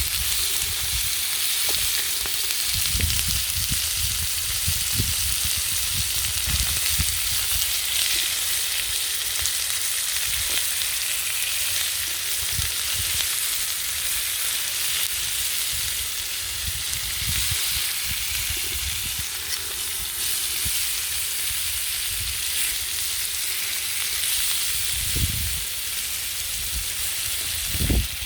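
Spice-marinated pork pieces sizzling steadily as they fry and char in a pan over campfire embers, cooked without added oil.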